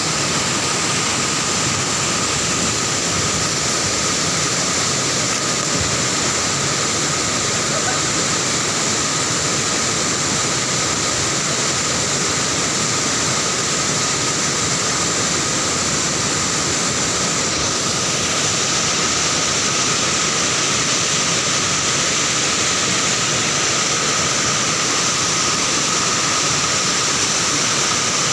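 Waterfall's falling water, a loud steady rushing noise that does not change.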